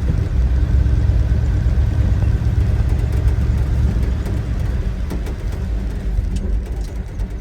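Old pickup truck's engine running while driving, a steady low rumble that eases slightly near the end.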